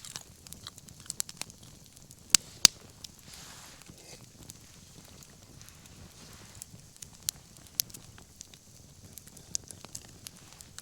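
Wood bonfire burning with a soft hiss and irregular crackles, with two sharp pops in quick succession about two and a half seconds in and a few more pops later.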